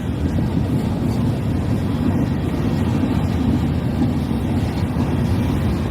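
Freight train's gravel hopper cars rolling past in a steady low rumble.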